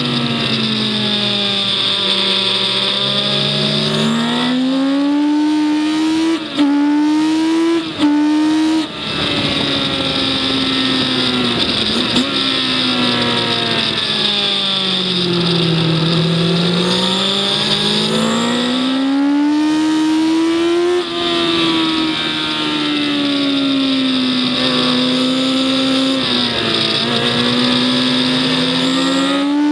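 Race vehicle's engine heard onboard while lapping a circuit: revs swing up and down through the corners, with two quick gear changes early on, a long drop in revs and then a steady climb back up.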